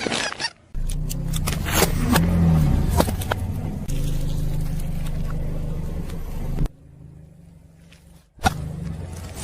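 Car engine running at low speed as the car rolls slowly, with a run of sharp cracks and crunches about one to three seconds in as the tyre crushes objects. The engine sound drops away near the middle. It returns after a single sharp crack near the end.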